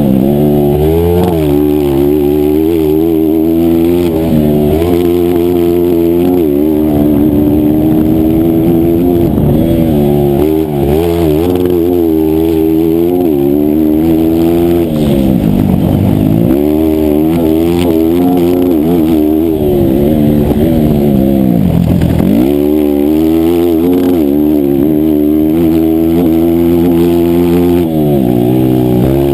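Single-cylinder four-stroke engine of a 160cc racing motorcycle running hard under race load, its revs wavering up and down steadily. Twice, at about 16 and 22 seconds in, the revs fall sharply and climb back, as when braking into a corner and accelerating out.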